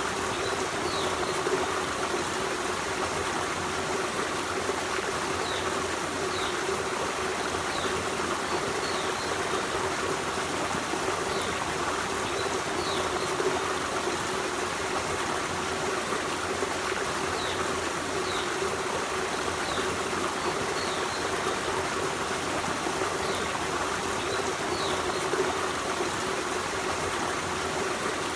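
Forest stream running steadily over rocks, with a bird's short high chirps every second or two.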